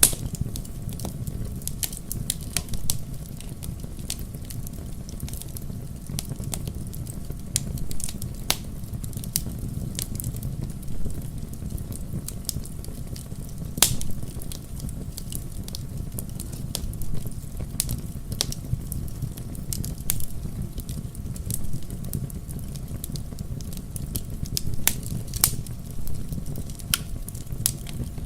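Wood fire crackling in a fireplace: irregular sharp pops and snaps over a low, steady rumble, with a few louder pops now and then.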